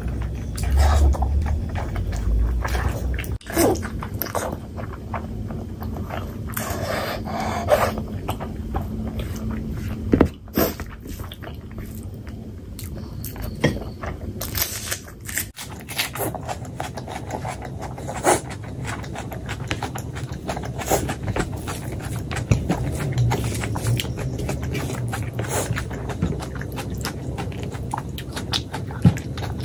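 A person chewing mouthfuls of fatty pork belly curry and rice, close to the microphone, with many irregular short clicks from the mouth.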